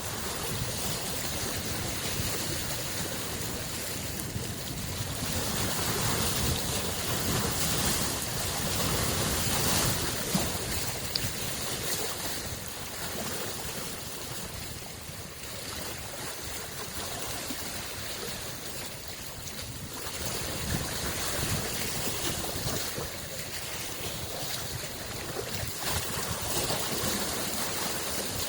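Small lake waves lapping and washing against the shore, in a continuous wash that swells and eases every few seconds.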